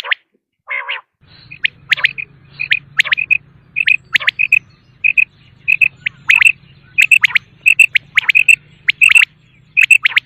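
Quail calling in a rapid run of short, sharp notes, mostly in twos and threes, mixed with quick downward-sweeping calls. This is a quail call recording used as a hunting lure. A faint low hum sits beneath from about a second in.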